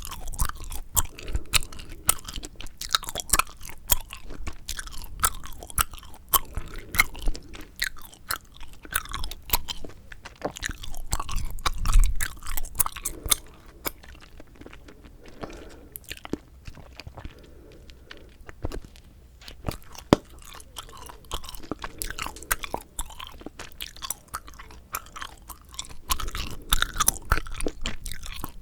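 Close-miked chewing of bubble gum: a steady run of small mouth clicks and smacks, with a couple of sharper snaps. It thins out for a few seconds about halfway through.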